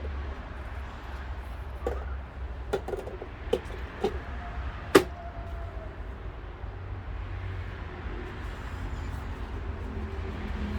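Small metal transmission parts knocking and clicking as they are handled and set down, about six sharp knocks in the first five seconds, the loudest about five seconds in, over a steady low hum.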